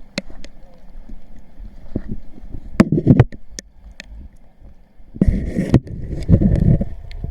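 Water splashing and sloshing in shallow water, in two louder spells about three seconds in and again from about five seconds, with scattered sharp clicks and knocks between.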